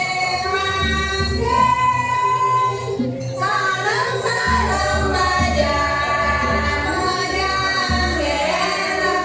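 Balinese janger song: a group of voices singing long, sliding melodic lines over a low, steady beat.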